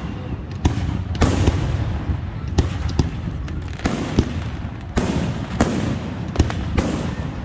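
Fireworks going off: a run of about ten sharp, unevenly spaced bangs, each followed by a crackling hiss.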